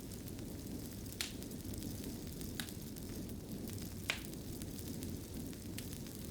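Wood fire in a fireplace crackling over a steady low rumble, with several sharp pops, the loudest about four seconds in.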